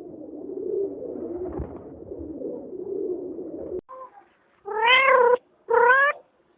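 A cat meowing twice, two short calls each rising slightly in pitch, about five and six seconds in, after a few seconds of a low, uneven noise.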